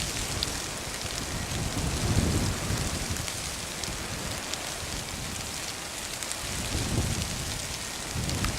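Train crossing a railway bridge: a steady rumble and rattle of wheels on the track, with low swells every few seconds.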